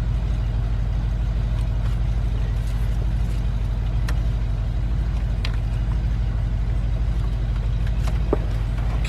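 A motor vehicle engine idling steadily, with a few light clicks of parts being handled.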